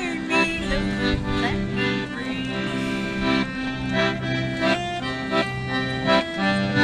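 Accordion playing a traditional tune, with held chords over steady bass notes.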